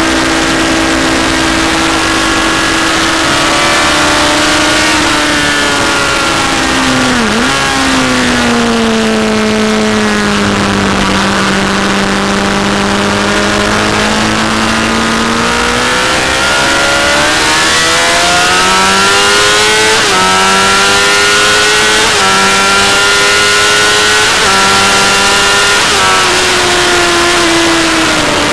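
Honda CBR1000 inline-four engine heard onboard at track speed over heavy wind noise. Its pitch dips sharply once about a quarter of the way in as the bike is downshifted into a long corner, runs lower and slowly bending through the corner, then climbs again as the bike accelerates out, with brief stutters in pitch.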